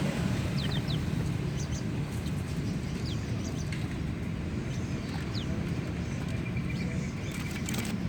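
Caged birds giving a few short, high chirps, each a quick falling note, over a steady low background rumble.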